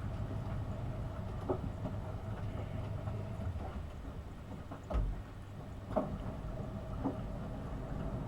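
AEG Öko-Lavamat 72520 front-loading washing machine running a wash, with a steady low rumble and hum and a few irregular knocks from the turning drum and its load.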